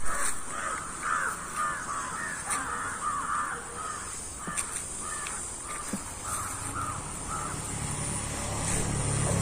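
Birds calling outdoors in a run of short repeated calls, close together at first and thinning out after about halfway. A low steady rumble comes up in the last couple of seconds.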